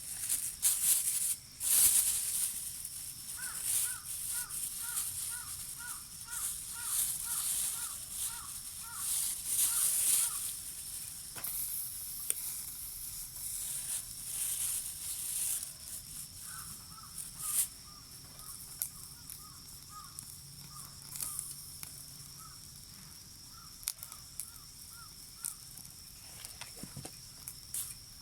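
An animal calling in two long runs of short, evenly repeated notes, about two or three a second, over a steady high insect trill, with scattered rustling noises, loudest in the first few seconds.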